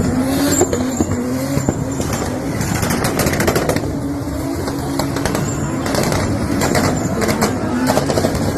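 Drift car's engine running loudly at high, wavering revs, over a dense rush of noise with many sharp crackles.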